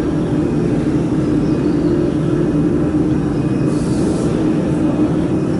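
Steady machinery drone in a workshop, with a constant low hum, and a brief hiss about four seconds in.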